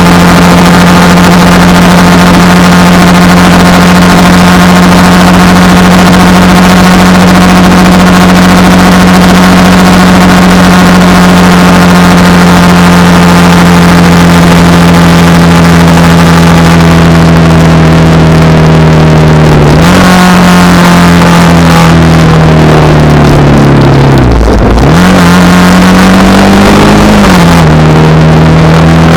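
Honda Rebel 300's single-cylinder engine running at steady cruising speed under heavy wind noise. About two-thirds in the engine note drops as the bike slows, then rises again a few seconds later as it accelerates back to speed.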